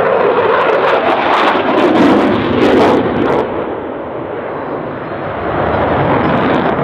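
Eurofighter Typhoon's twin EJ200 turbofan engines in a loud pass: a harsh, crackling jet noise for the first three seconds or so, easing off after that and swelling again near the end.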